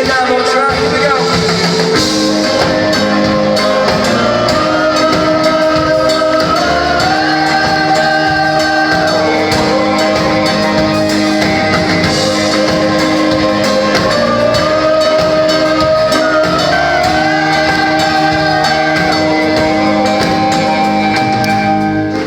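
Live band playing an instrumental passage of a rock-leaning song, with drums and bass under a long-held melody line that slides slowly between notes.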